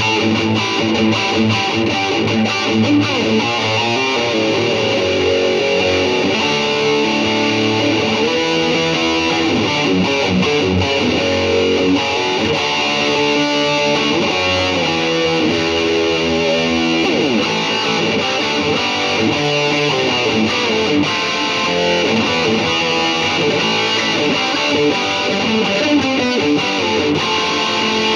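Electric guitar played through an Atomic AmpliFire amp-modelling pedal into cheap computer speakers, as a continuous run of improvised single-note lines and chords with some pitch slides partway through.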